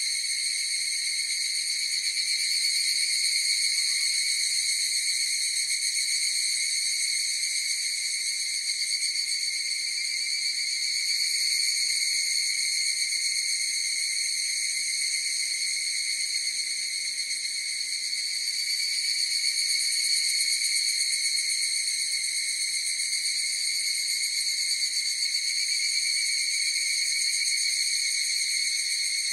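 Chorus of higurashi (evening cicadas, Tanna japonensis): a continuous, steady, high-pitched shrill drone with only slow swells in loudness and no separate phrases standing out.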